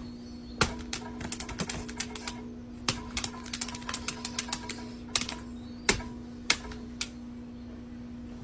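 Rapid, irregular sharp clicking and tapping, coming in quick runs, over a steady low hum.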